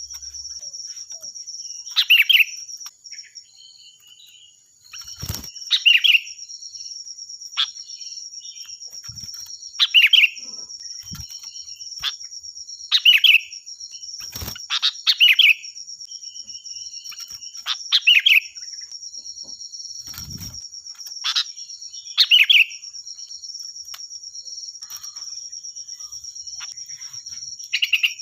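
Sooty-headed bulbul (kutilang) giving loud, shrill call phrases, repeated about every four seconds.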